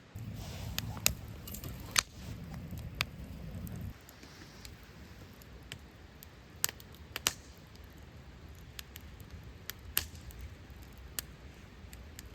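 Campfire crackling: irregular sharp pops and snaps of burning wood, a few of them loud. A low rumble runs under the first four seconds and stops abruptly.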